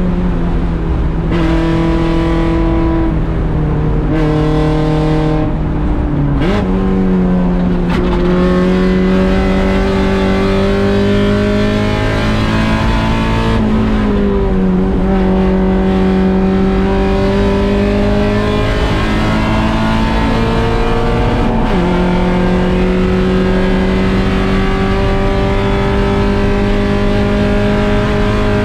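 1.6-litre Mazda Miata race car's four-cylinder engine running hard at racing speed. Its pitch climbs slowly on long pulls and steps abruptly several times at gear changes.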